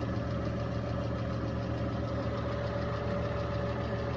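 Chevrolet Lacetti engine idling steadily at about 800 rpm when hot. Its oil pressure at this idle is only about 0.5 bar, which the mechanic finds very low.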